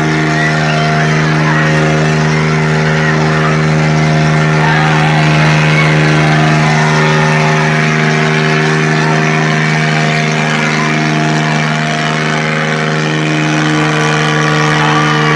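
Diesel tractor engine running hard at steady high revs, as in a tractor pulling contest.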